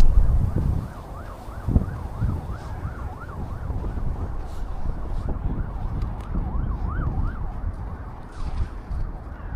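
Emergency-vehicle siren in a fast, repeating rising-and-falling yelp, with wind buffeting the microphone in the first second.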